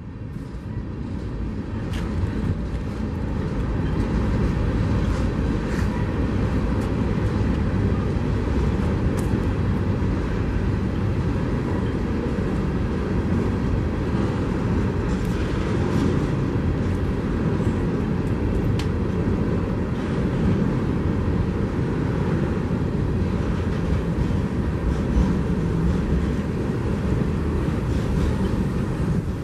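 A train passing: a steady low rumble that builds over the first few seconds and then holds.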